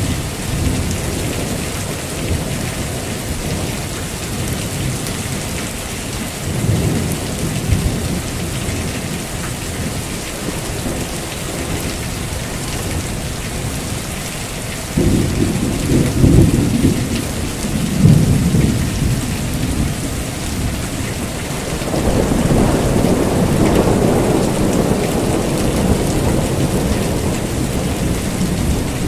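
Heavy rain falling steadily, with rolls of thunder rumbling through it: a short rumble about seven seconds in, a louder clap that starts suddenly about halfway and peaks twice, then a long rolling rumble to the end.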